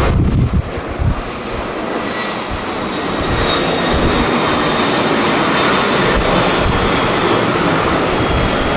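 Jet airliner engines running as a passenger jet passes; the noise swells about three seconds in and then holds steady. In the first second, gusts of wind buffet the microphone.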